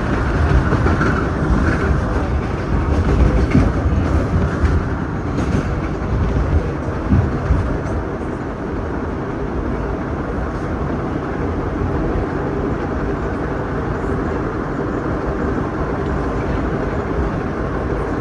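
Vintage subway train running along the rails, heard from inside its rear cab: a steady low rumble with sharp clicks and knocks from the wheels in the first several seconds, settling into a smoother, even rumble after about eight seconds.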